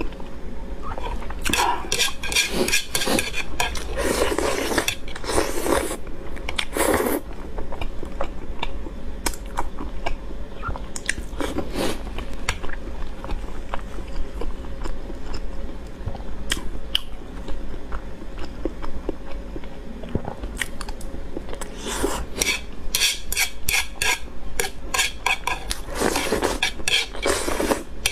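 Close-miked chewing and biting of noodles and egg, with wet mouth clicks and chopsticks clicking on the plate. The sounds come thickly in two stretches, a few seconds in and again over the last several seconds, with scattered clicks between. Near the end she draws a mouthful of noodles in.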